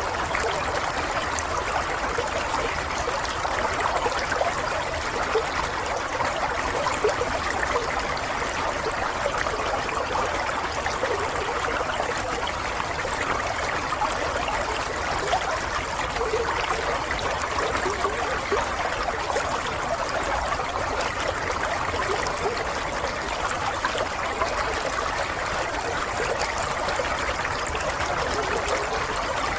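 Running water trickling and gurgling steadily, with a fine, even bubbling texture.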